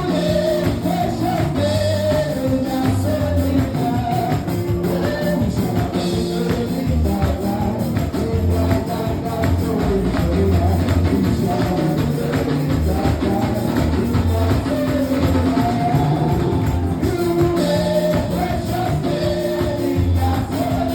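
Gospel worship music: voices singing a melody over a band with bass and a steady tambourine beat.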